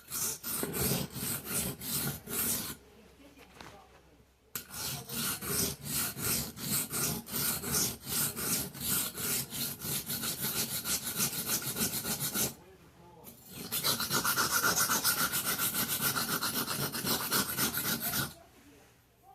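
Steel knife blade stroked quickly back and forth across a wet whetstone, a fast, even run of scraping strokes in three bouts, with short pauses about three seconds in and about twelve seconds in.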